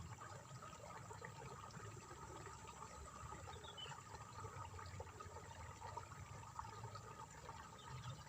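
Faint, steady trickling and splashing of water in a rice paddy, with a brief faint chirp a little past the middle.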